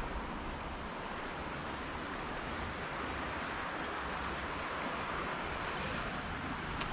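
Creek water running steadily over a riffle, an even rushing hiss.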